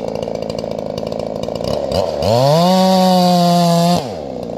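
Two-stroke chainsaw idling, then revved to full throttle about two seconds in, held at a steady high pitch for nearly two seconds, and dropped back to idle.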